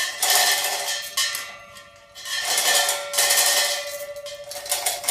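Metal clanking: several loud strikes of metal on metal, each leaving a bell-like ring, about a second apart.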